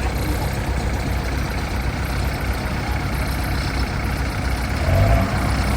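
Heavy engine of farm machinery, a rice harvester or the tractor with it, running steadily under strain, rising briefly near the end.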